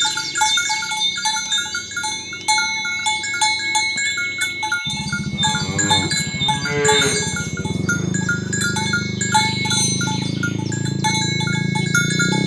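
Bells on walking cattle clinking over and over at a steady walking pace. From about halfway through, cows moo in long, low calls that get louder near the end.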